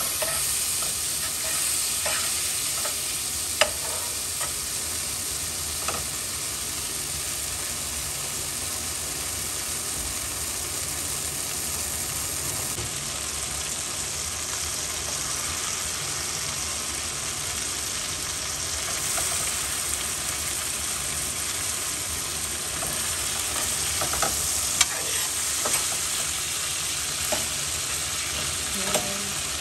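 Chicken pieces frying in a pan with a steady sizzle, broken by occasional sharp clinks from stirring, a few more of them near the end.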